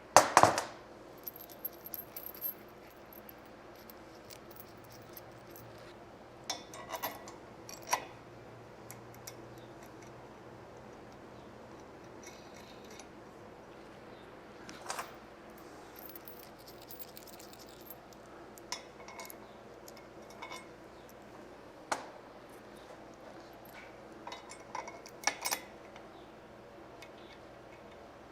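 Scattered metallic clinks and knocks of steel engine-stand parts and bolts being handled during assembly, the sharpest knock coming right at the start.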